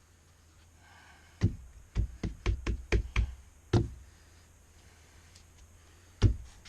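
Hammer blows knocking shims into place under a jacked-up floor: a single knock, then a quick run of about six, another, and a last one near the end.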